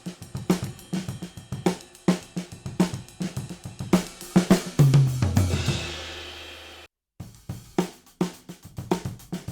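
Recorded acoustic drum kit beat (kick, snare and hi-hat) played through a stock dbx 119 compressor/expander set to expansion in above-threshold mode. About five seconds in, a low drum hit and a cymbal ring out for about two seconds. The sound then cuts out for a moment and the beat starts again.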